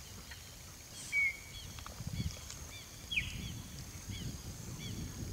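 Small birds chirping: a run of short arched chirps about twice a second, with two louder calls sweeping downward about one and three seconds in, over a low rumbling noise.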